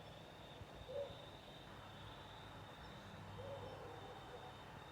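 Faint steady hum of electric fans running, among them a vintage Mistralaire ceiling fan turning its heavy blades on low speed, with a thin steady whine above the hum. A few brief low calls sound about a second in and again around three and a half seconds in.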